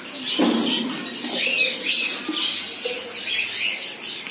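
Caged pet birds chirping and squawking over and over, in many short high calls. About half a second in there is a brief, louder rustle.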